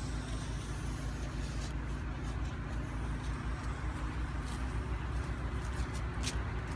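An engine hums steadily, with a few brief, faint clicks.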